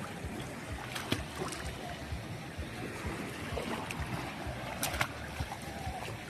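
Seaside waves and wind on the microphone: a steady rushing rumble, with a couple of sharp clicks about one second and five seconds in.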